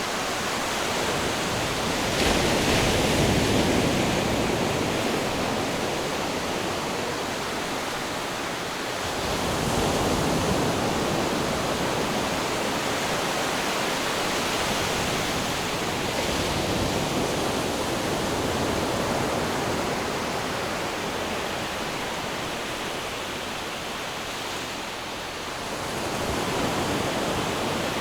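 Ocean waves washing onto the shore in a steady rush of surf, swelling four times as waves break.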